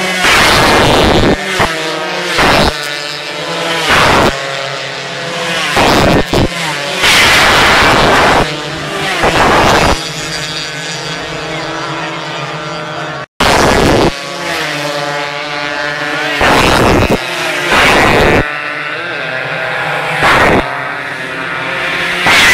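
Racing motorcycles passing close by in quick succession, about a dozen loud passes loud enough to overload the recording, with engines running steadily between them. The sound drops out briefly just past the middle.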